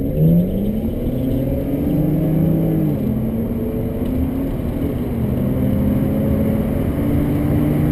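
1998 BMW 528i's straight-six engine heard from inside the cabin while driving, its pitch rising sharply at the start, climbing and dropping about three seconds in, then rising and falling gently a few more times as the car moves along.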